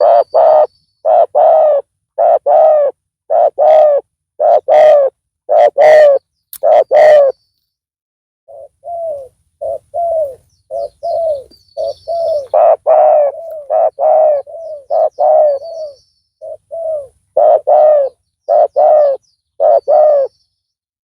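Spotted dove (tekukur) cooing loudly and close, its coos coming in repeated groups. In the middle a fainter, quicker run of coos follows, then the loud cooing returns near the end.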